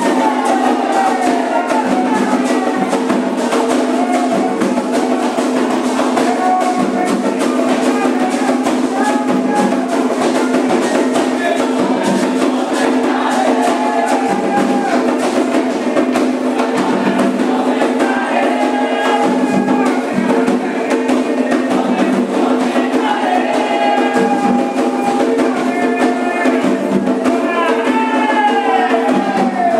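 Candomblé ritual music: atabaque drums and percussion keep a steady repeating rhythm while voices sing chants with gliding melodic lines.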